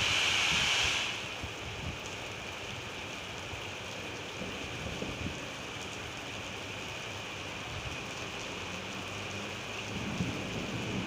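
Steady rain falling, an even hiss. A louder, brighter stretch of hiss stops about a second in, and a low rumble joins near the end.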